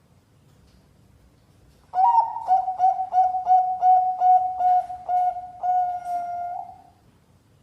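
Bangkok-strain zebra dove (perkutut) singing one song phrase: an opening coo about two seconds in, a quick run of short, even coos at about four a second, then a long held final coo.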